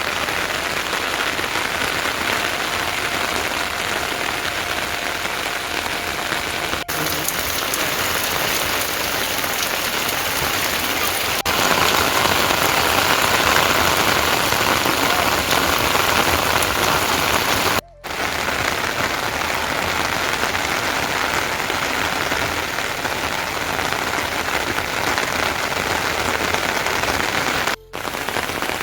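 Heavy rain falling steadily on surfaces, a dense even hiss. It drops out for a split second twice, about two-thirds of the way through and near the end.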